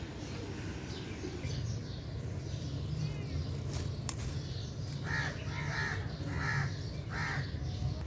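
Birds calling outdoors: faint chirps early on, then a bird gives four calls in a row, about one every second, in the second half. A low steady rumble runs underneath.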